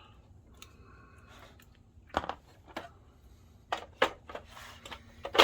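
A few sharp clicks and knocks of plastic parts being handled and fitted on a DLP projector during reassembly; the loudest comes near the end.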